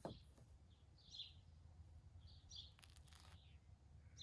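Near silence: quiet outdoor ambience with a few faint, short, high bird chirps spread through.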